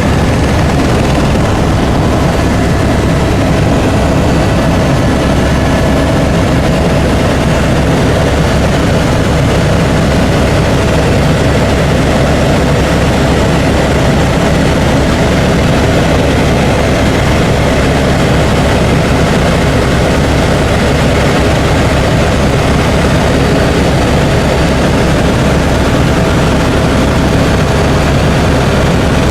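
Helicopter in flight, heard from inside the cabin: a loud, steady drone of rotor and engine noise with a faint steady whine on top.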